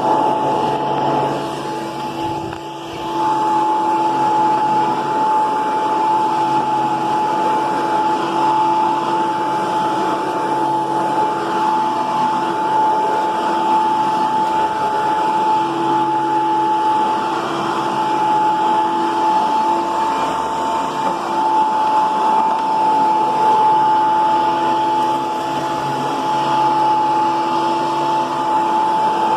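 Hoover PowerMax II upright vacuum cleaner running steadily: a constant high motor whine over the rush of air, dipping briefly about two to three seconds in.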